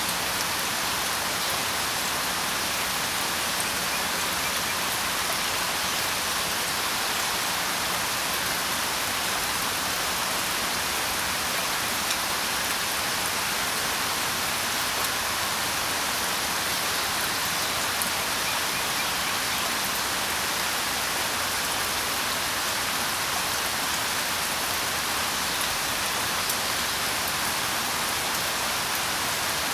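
Steady rain falling, an even hiss with an occasional louder drop.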